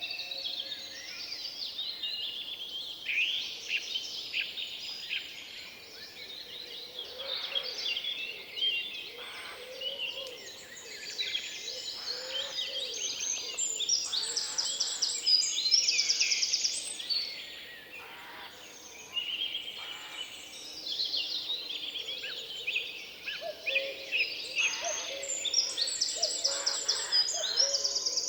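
Several songbirds singing together in a forest, with overlapping chirps, warbles and fast high trills that rise and fall in loudness.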